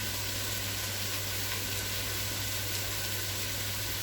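Chopped vegetables sautéing in a pot, a faint steady sizzle over a constant low hum.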